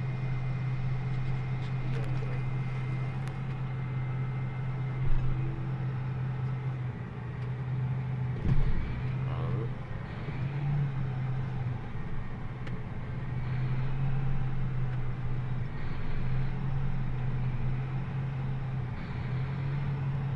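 John Deere 8400R tractor's diesel engine running steadily while driving, a low, even hum. Two brief knocks come about five and eight and a half seconds in.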